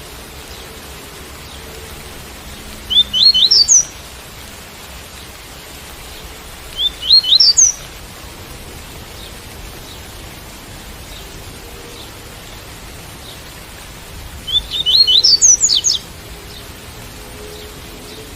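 Coleiro (double-collared seedeater) singing the tui-tui song: three short phrases of quick, rising notes, a few seconds apart, over a steady hiss of rain.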